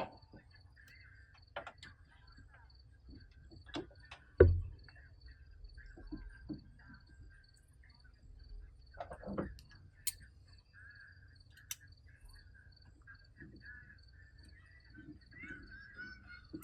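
Crickets chirping steadily in the background, with a few scattered knocks and clicks, the loudest about four and a half seconds in.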